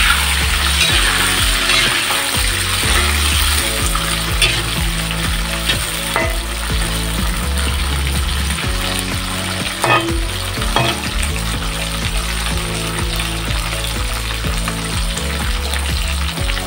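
Green beans sizzling as they stir-fry in hot oil in a steel wok. A metal spatula scrapes and clinks against the pan a few times.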